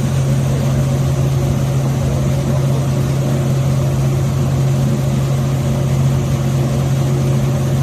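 Boat's engine running steadily, heard on board: a constant loud, low hum that does not change.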